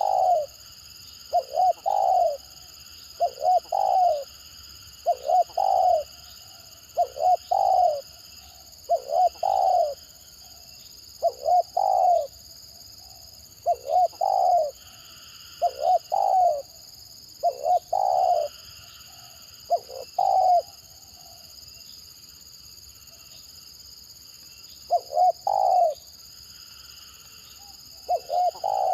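Spotted dove (tekukur) cooing in short, broken clusters of notes, the stuttering 'gagap' style, repeated about every two seconds with a pause of about four seconds near the end.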